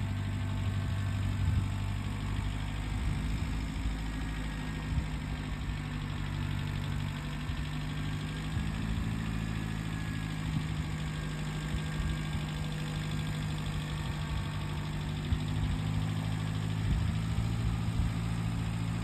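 Kubota tractor's diesel engine running steadily, its pitch shifting up a little about eight seconds in.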